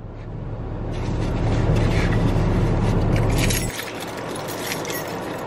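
Car engine running, heard from inside the cabin, with keys jangling and small clicks and rustles. The low engine hum drops off sharply about three and a half seconds in.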